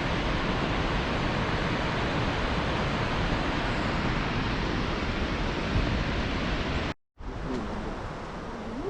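Steady rushing of a fast, rough mountain river, a continuous even hiss. It cuts out completely for a moment about seven seconds in and comes back a little quieter.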